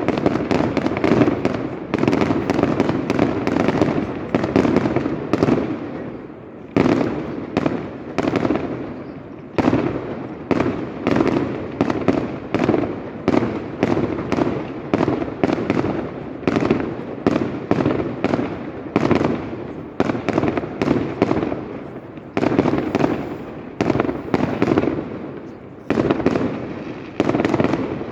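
Fireworks display: a rapid, continuous string of loud bangs, several a second, easing off briefly about six and nine seconds in before building again.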